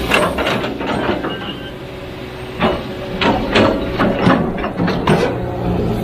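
A heavy machine's diesel engine running steadily, with a string of sharp metallic clanks and knocks from its working parts, bunched about a second in and again through the second half.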